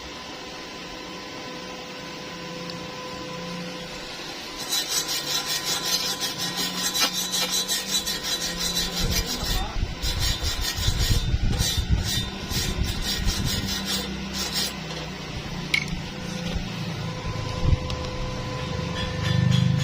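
Hand tool rasping on metal in quick, even back-and-forth strokes, starting about five seconds in and stopping about fifteen seconds in, over a steady hum.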